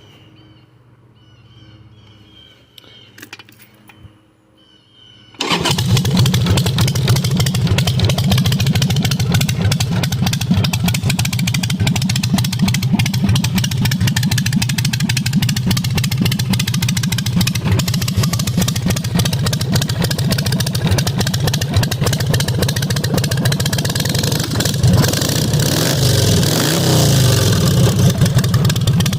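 Harley-Davidson Sportster 883's air-cooled V-twin starts abruptly about five seconds in and runs loudly through a homemade 2-inch stainless exhaust. It is revved briefly near the end.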